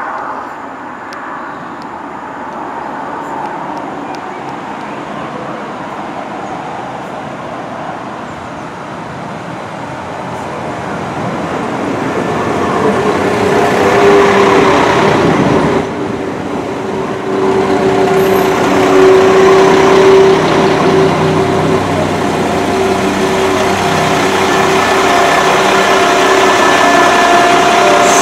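London Midland Class 172 diesel multiple unit arriving at a platform. Its rumble grows as it approaches and is loudest about halfway through as it runs in alongside. It then slows with a steady hum from its underfloor diesel engines.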